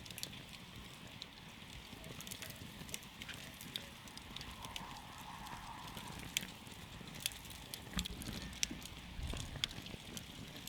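Wood campfire crackling: scattered sharp pops and snaps over the steady low rumble of burning, with a few louder pops in the second half.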